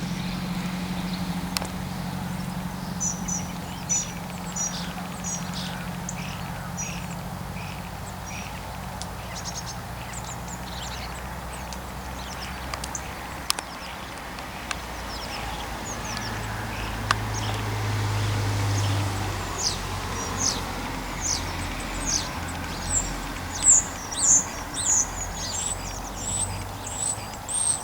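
Small birds chirping: many short, high, falling calls that come thicker and louder in the second half, over a faint low engine hum.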